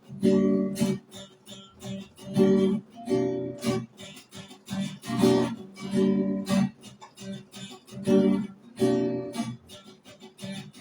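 Acoustic guitar strummed in a repeating rhythm, each chord ringing out and fading before the next strokes.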